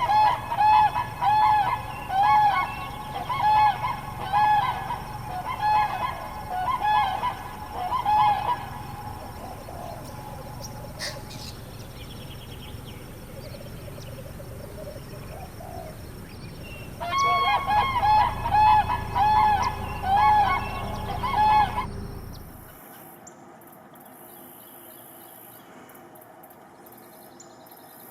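Goose honking: a run of loud, evenly spaced honks about one a second, a pause, then another run of honks that breaks off abruptly near the end.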